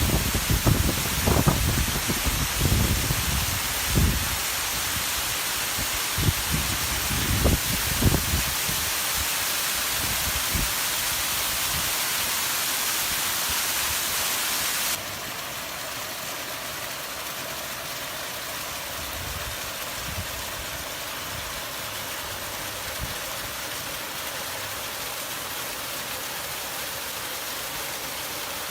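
Steady rushing hiss of heavy rain and running water, with low irregular thumps through the first several seconds. About halfway through, the hiss drops suddenly to a lower, duller level and carries on steadily.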